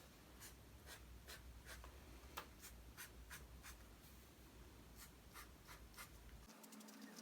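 Pen point tapping and scratching on journal paper: faint, irregular ticks about twice a second.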